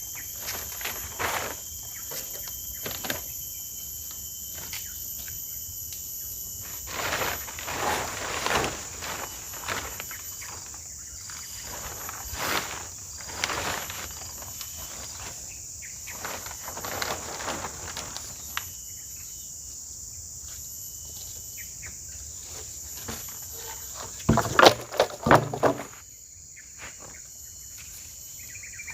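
Night insects, crickets, keeping up a steady high drone with a fainter pulsing chirp above it. Scattered rustles and knocks come through it, with a short run of louder knocks near the end.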